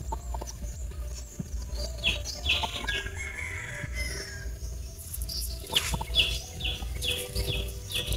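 Birds chirping in short, falling high calls: a pair about two seconds in, then a run of about two calls a second from about six seconds in. A low rumble on the microphone runs beneath them.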